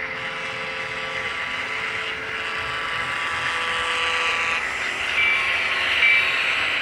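Train running on the rails, the steady noise of its wheels growing louder, with two brief high wheel squeals near the end.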